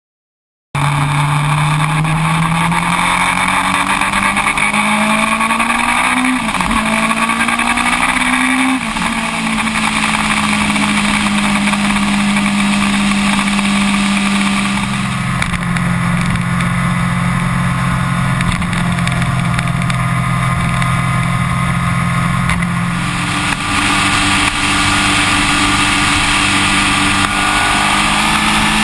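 Yamaha R1's inline-four engine running under way, starting abruptly just after the beginning. Its pitch rises for a few seconds, drops sharply as at a gear change, then holds mostly steady with a couple of step changes, over a constant rushing noise.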